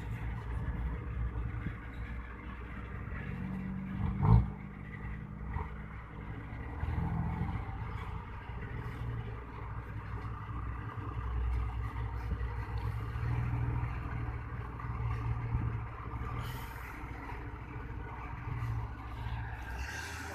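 Hitachi ZX200-1 hydraulic excavator's diesel engine running under working load as it digs, the note swelling and easing several times, with a single sharp knock about four seconds in.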